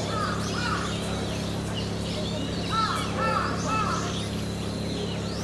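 Birds calling: two short arched call notes near the start, then four more in quick succession about three seconds in. Higher, small-bird chirps run throughout, over a steady low hum.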